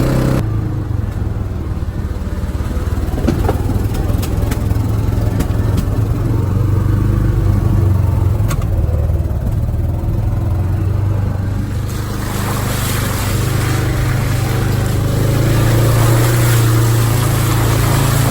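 Motor vehicle engine running steadily under way, with a strong low hum and road noise that grows louder about twelve seconds in.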